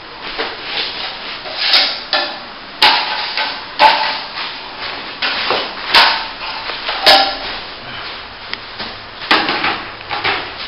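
Hand tool knocking and scraping at a plaster wall while a crack is opened up and cleaned out: irregular sharp knocks, the loudest about five of them, with scraping in between.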